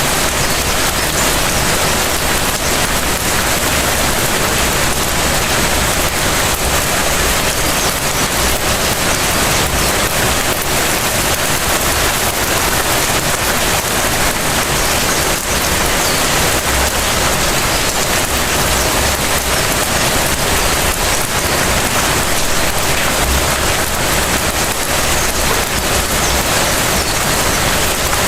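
Steady light rain falling and pattering on surfaces, an even hiss of many small drops.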